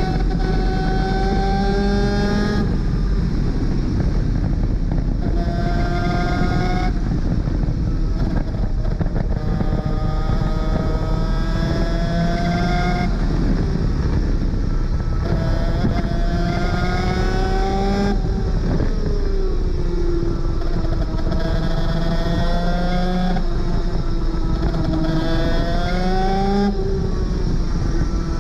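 Onboard sound of a Superkart 250's two-stroke engine running hard. Its pitch climbs steadily through each stretch, then drops away every few seconds at gear changes and corners, over a constant rush of noise.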